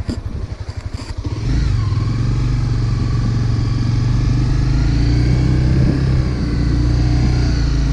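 Motorcycle engine idling with an even pulsing beat, then taking throttle about a second and a half in as the bike pulls away, and running steadily from then on.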